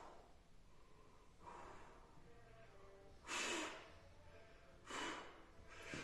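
A man breathing hard while straining under a heavy lift: two loud, noisy breaths about a second and a half apart, with a fainter one before them.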